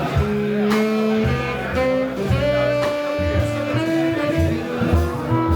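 Live jazz band playing: a melody of held notes over a bass line that steps to a new note about every half second, with drum and cymbal hits.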